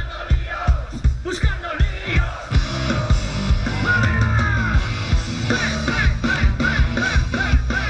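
Loud live rock music, likely punk: a band plays with a steady kick-drum beat, distorted guitars and bass, and a singer.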